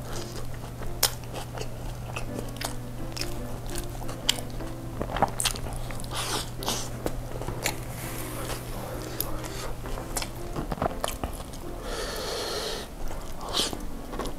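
Close-miked eating of a Turkish kebab wrap: wet chewing and biting with many short sticky clicks, and fingers pulling the sauce-soaked wrap apart.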